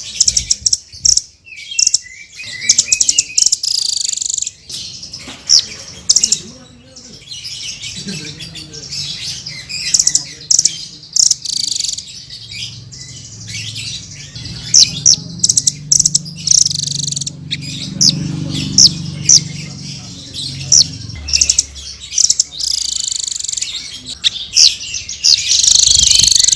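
Srindit (hanging parrot) calling with a rapid run of shrill, high-pitched chirps and squeaks. The calls come in dense bursts with short gaps.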